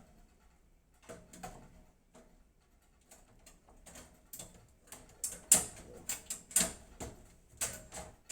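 Irregular clicks and light metallic knocks as a motherboard is worked into a PC case, its edge catching on the case and standoffs. The clicks are sparse at first and come thicker and sharper over the second half.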